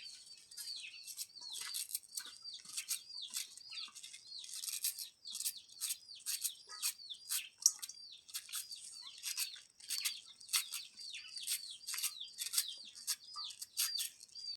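Domestic chicks peeping continuously: high, arching peeps about twice a second, mixed with quicker sharp chirps. The sound cuts off suddenly at the end.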